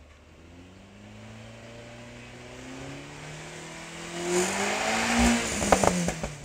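Proton Satria Neo CPS's 1.6-litre four-cylinder engine through a Hotbits aftermarket exhaust, revved up slowly and steadily with the exhaust note getting much louder from about four seconds in. Near the end the revs drop and a few sharp pops crackle from the exhaust.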